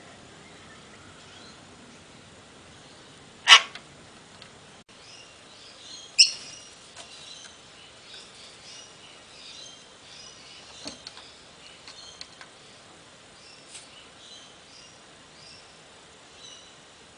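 Parrot giving two short, loud squawks about three seconds apart, followed by soft, scattered chirps and chatter.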